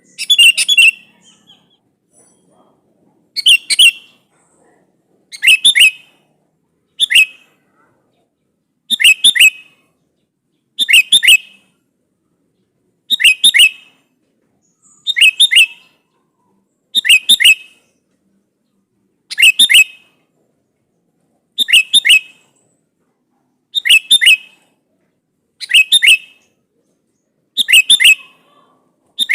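Sooty-headed bulbul (kutilang) calling to a rival: short, bright chirping phrases, each about half a second long, repeated evenly about every two seconds.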